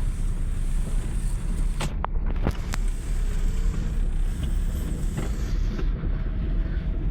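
Car running with a steady low rumble, with a few sharp clicks about two to three seconds in.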